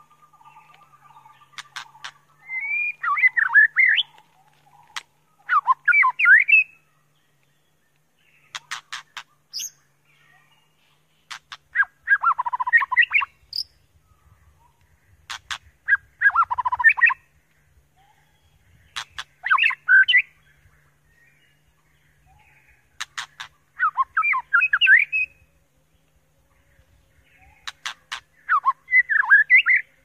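White-rumped shama singing: short warbled, whistled phrases repeated every three to four seconds, most of them preceded by a quick run of sharp clicks.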